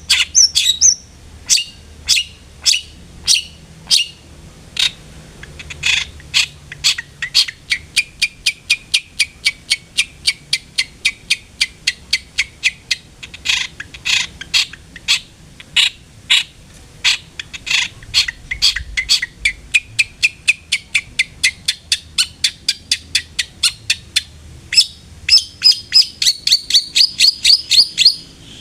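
Long-tailed shrike (cendet) singing: a long run of sharp, rapid notes several a second, quickening into a fast chatter near the end.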